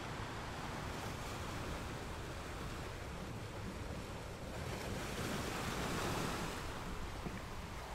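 Sea water washing and surging with wind noise on the microphone, an even rush that swells louder for a couple of seconds past the middle.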